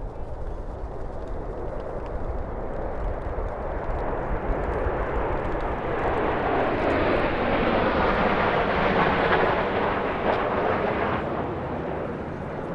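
Military fixed-wing aircraft flying past overhead: a broad roar that builds steadily, is loudest about eight to ten seconds in, then fades away.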